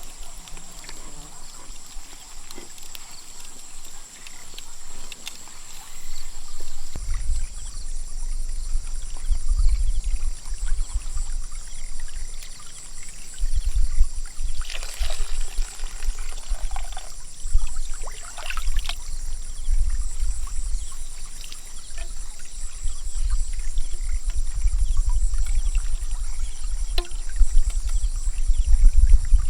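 Rain falling outdoors, with many small ticks and a steady high tone behind it. A gusty low rumble, like wind on the microphone, comes in about a quarter of the way through.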